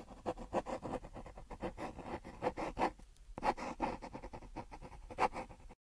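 Irregular light scratching and rustling strokes, with a few louder scrapes about two and a half, three and a half and five seconds in, stopping just before the end.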